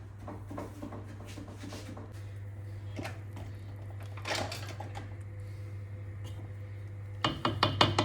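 Household handling sounds over a steady low hum: scattered soft clicks, a louder rustle or scrape about halfway, then a quick run of sharp knocks near the end.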